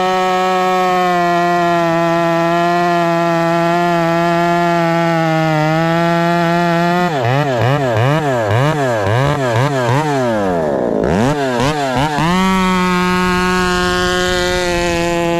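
Stihl 500i fuel-injected two-stroke chainsaw running at high revs. After about seven seconds its pitch swings rapidly up and down for several seconds and dips low once, then it settles back to a steady high note.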